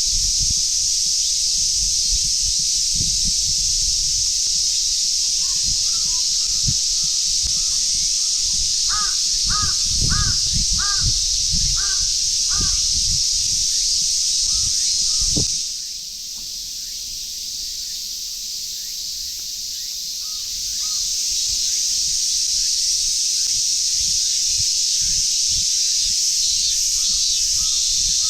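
Steady high-pitched drone of summer cicadas, which drops away for a few seconds past the middle and then returns. Over it a crow caws in a quick run of about seven calls near the middle, with footsteps thudding on the path underneath.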